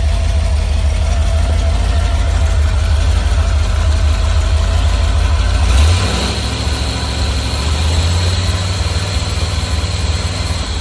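Carbureted Rover 4.0 V8 running at idle on an engine stand. About six seconds in its running note changes and it gets a little quieter.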